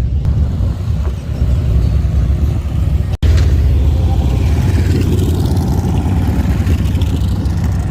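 Motorcycle engine running while riding on the road, heard from on board under heavy wind rumble on the microphone, with a brief dropout about three seconds in.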